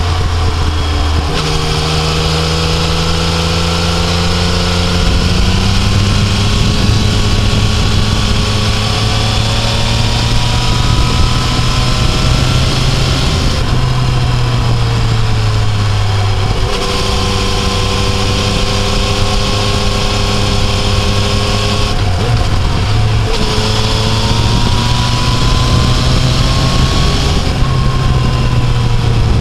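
Yamaha Tracer 900's 847 cc inline-three engine pulling uphill under throttle. Its pitch climbs slowly, steps at several gear changes and sags where the throttle eases off about halfway through, over a steady rush of wind.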